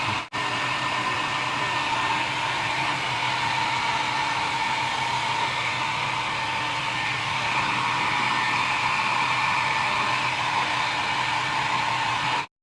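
A small electric blower, such as a hair dryer, running steadily: a continuous rushing of air with a steady whine. It drops out briefly just after the start and again near the end.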